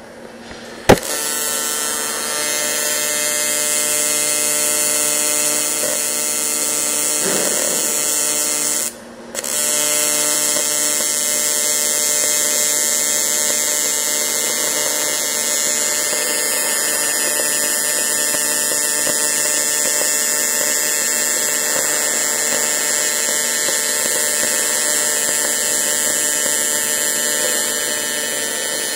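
Welding arc on 1.5 mm A5052 aluminium sheet: the arc strikes with a sharp crack about a second in, then runs as a steady, loud electric buzz. It breaks off briefly about nine seconds in and restarts.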